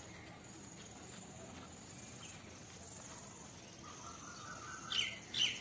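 Faint background hiss with a thin, steady high tone. Near the end come two short, sharp high chirps from a small bird.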